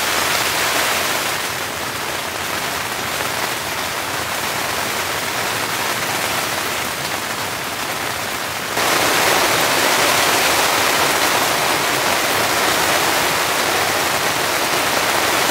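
Heavy rain beating steadily on a tent. About nine seconds in it suddenly becomes louder and brighter, then stays steady.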